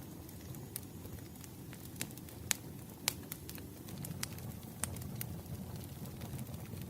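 Wood fire burning: a steady low rush of flame with irregular sharp crackles and pops, about ten of them.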